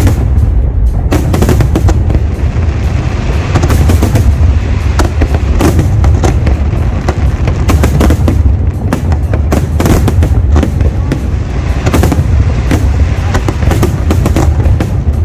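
Fireworks display in a dense barrage: many shells bursting in quick, overlapping bangs over a constant low rumble.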